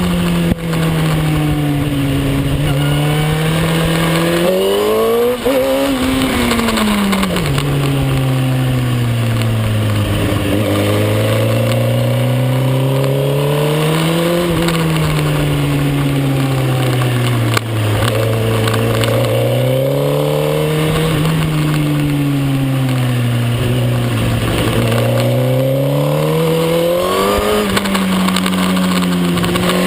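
Suzuki GSX-R1000 K9's inline-four engine at racing speed, its pitch rising and falling over and over as the bike accelerates, shifts and slows through the corners.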